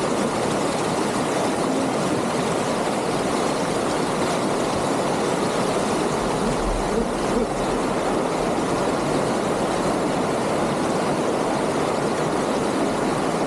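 Steady rush of water flowing over rocky stream rapids, an even, unbroken noise.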